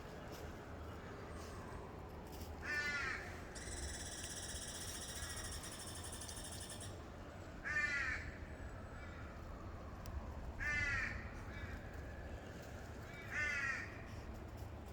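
A crow cawing: four single harsh caws spaced about three seconds apart.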